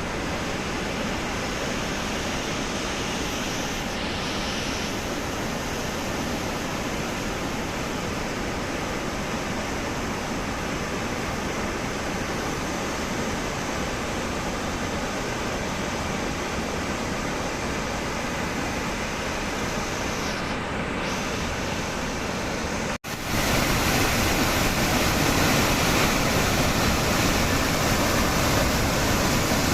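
Steady rushing noise of the Langfoss waterfall's falling water. About three-quarters of the way through it drops out for an instant and returns louder.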